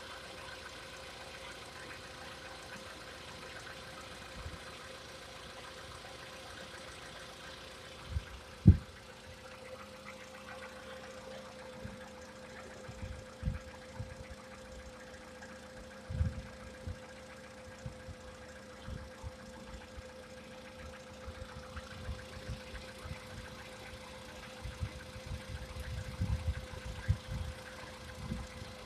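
Volkswagen Polo Sedan's 1.6-litre CFNA four-cylinder petrol engine idling with a steady hum and scattered low knocks. One loud thump comes about nine seconds in.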